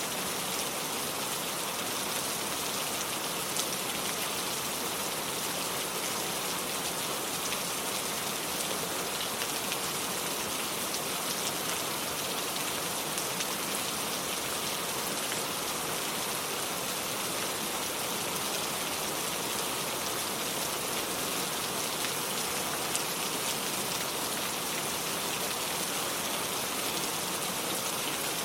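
Steady rain falling, a continuous even hiss with an occasional single louder drop.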